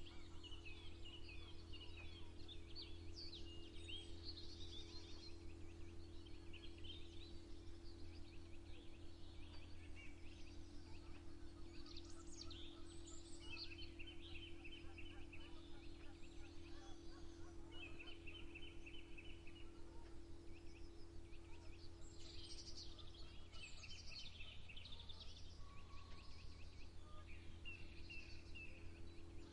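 Several small songbirds chirping and singing, with many short whistled notes and rapid buzzy trills, over a steady low hum.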